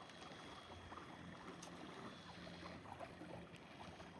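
Faint outdoor background noise with a low, steady hum and no distinct event.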